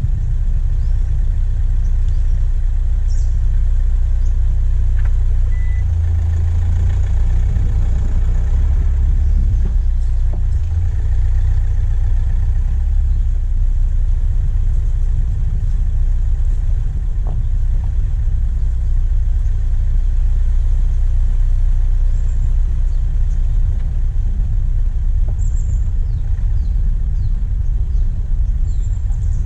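Diesel engine of a vehicle driving on a forest track, picked up close from the bonnet: a steady low rumble. A few faint, short high chirps sound over it now and then.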